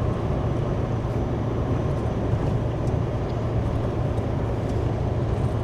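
Steady drone of a semi-truck tractor's engine and road noise heard from inside the cab while driving, a constant low hum under an even rush.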